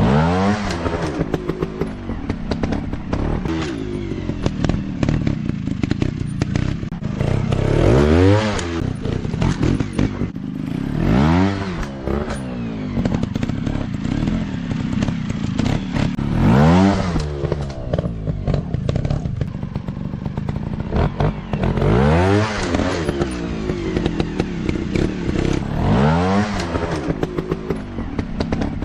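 Dirt bike engine running with about six sharp revs spread through, its pitch shooting up and dropping back each time, and a clatter between them.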